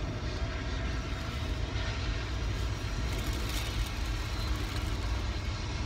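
A train going by: a steady low rumble, heard from inside a parked car.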